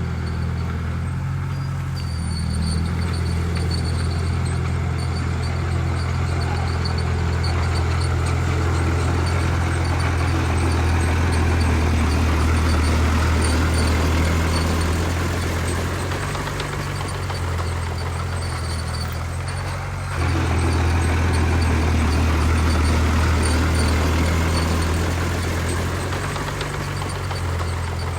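Heavy diesel engine of an earthmoving machine working under load, swelling and easing over several seconds, with a sudden jump in level about twenty seconds in. A faint regular high ticking runs along with it in the first half.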